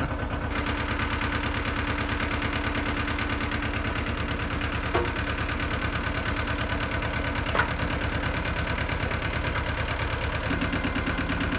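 Small Yanmar diesel tractor engine running steadily at low revs, driving a rear PTO tiller, too low an RPM for the tiller to dig in well. A sharp click sounds about halfway through and another a couple of seconds later.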